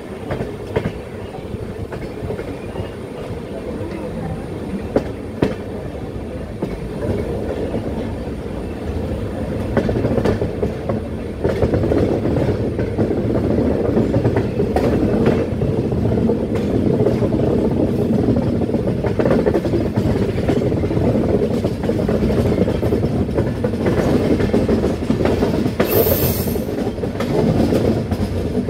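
Express train running, heard from on board: a steady rumble of wheels on the rails with scattered clicks over rail joints, growing louder about ten seconds in. A brief high hiss near the end.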